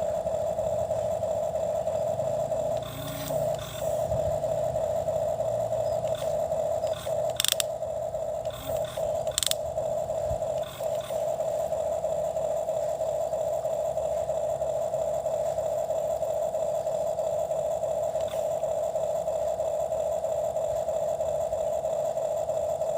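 Toy excavator at work: a steady motor whine, with scraping and a handful of sharp clicks from about three to ten seconds in as it digs.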